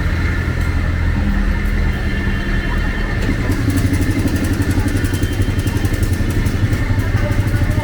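Motorcycle engine running close by in street traffic, its fast, even beat growing stronger about three seconds in.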